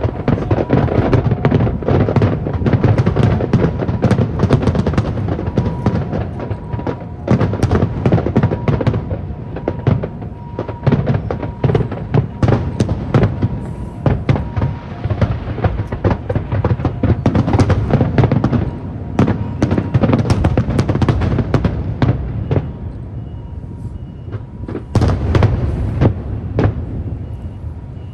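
An aerial fireworks display: dense volleys of bangs and crackling, many per second, with a deep rumble beneath. The firing thins out about three-quarters of the way through, then a fresh heavy barrage starts near the end.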